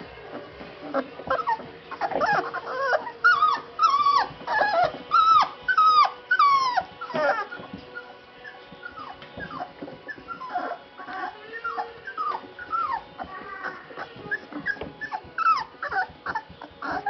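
Month-old puppies whimpering: a run of short, high whines that each fall in pitch, about two a second and loudest in the first half, then fainter and more scattered.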